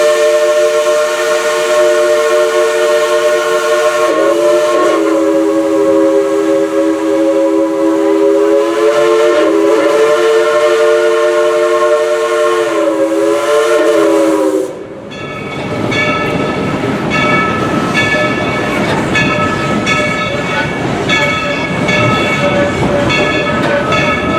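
Chime steam whistle of Dollywood Express steam locomotive No. 70 blowing one long chord of several notes, its pitch wavering a little a few times, cutting off about fifteen seconds in. Then the train rolls along the rails with a steady rumble and intermittent high squeals from the wheels.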